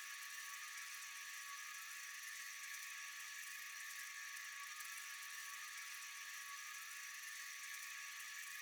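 Steady chorus of night insects: a dense, high-pitched buzzing and trilling that goes on without a break.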